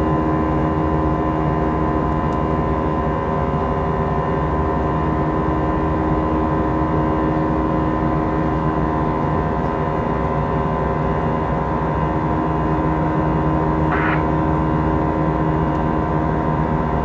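Steady drone of an Airbus A320's jet engines heard inside the cabin, a noise rumble carrying several steady tones. A short hiss cuts in near the end.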